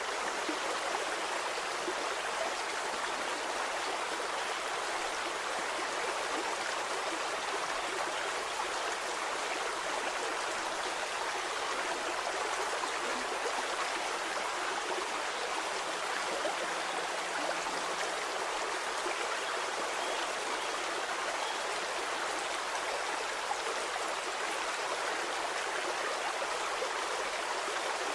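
Shallow stream flowing steadily over stones, a continuous even rush of water with a light trickling texture.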